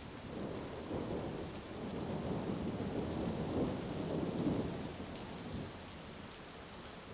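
A rolling rumble of thunder over steady heavy rain. The rumble builds about half a second in, is loudest around the middle, and dies away near the end, leaving the rain hiss.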